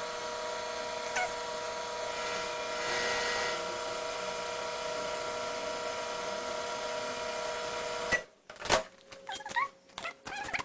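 Microwave oven running: a steady motor hum with a constant whine, cutting off suddenly about eight seconds in, followed by a few clicks and knocks.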